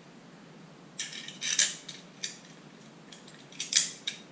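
Light metal clinks and scrapes in short bursts, a cluster about a second in and another near the end. This is a homemade steel exhaust hanger clamp being handled and refitted on the muffler.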